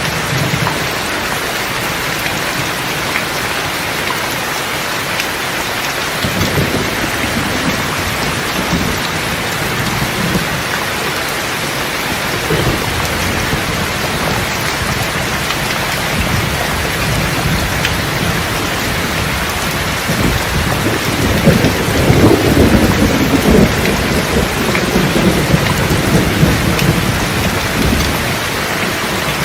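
Steady heavy rain with rolling thunder. The thunder rumbles about six seconds in and swells louder through the second half before easing near the end.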